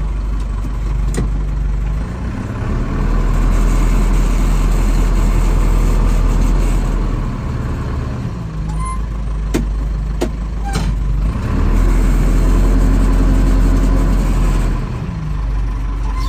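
Fermec backhoe loader's diesel engine running, speeding up twice for a few seconds at a time as the front loader works a pile of snow. A few sharp knocks come about ten seconds in.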